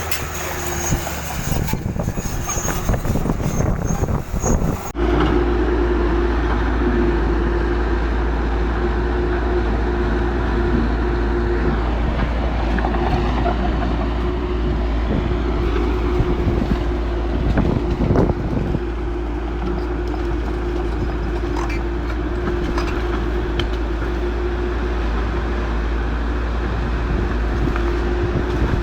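Heavy diesel earth-moving machinery running: rough clattering for the first few seconds, then, after an abrupt change about five seconds in, a steady engine drone with a deep hum and a constant held tone, broken once near the middle by a brief clank.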